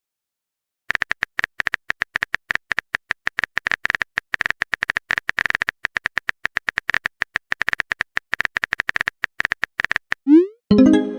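Electronic typing sound effect: rapid, irregular short beeps, one for each character, as a chat message is typed out. Near the end comes a short rising glide, then a brief pitched tone.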